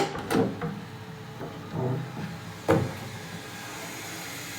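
A bathroom access hatch being opened and handled: a few sharp clicks and knocks, the last just before three seconds in, then a faint steady hiss.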